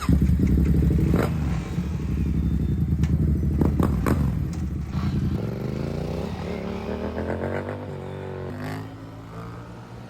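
Motorcycle engine running close by, then accelerating away, its pitch rising as it grows fainter.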